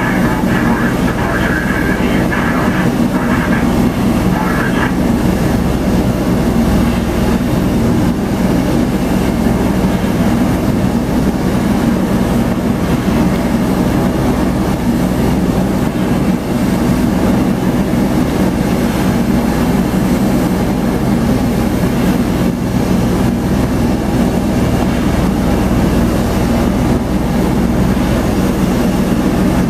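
Bell Boeing V-22 Osprey's twin turboshaft engines and proprotors running, a loud, steady low drone.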